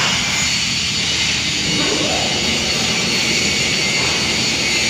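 Large stress-relieving furnace running under firing, a steady loud rushing noise.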